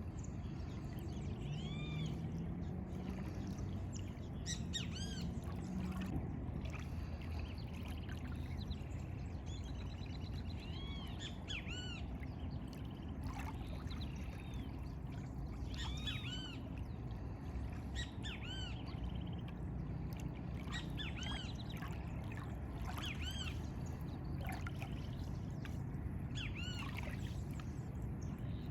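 Birds singing and calling, a steady scatter of short arched chirps every second or two, over a continuous low rumble of ambience.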